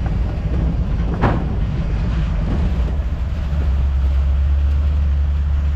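Steady low rumble of an old Ford F250 pickup on the move, heard from its open bed: engine and road drone. The drone deepens and grows louder about three and a half seconds in, and a brief knock comes about a second in.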